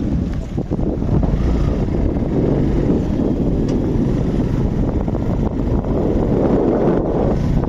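Wind buffeting the microphone of a moving bike on the road, a steady dense rumble with traffic and road noise underneath.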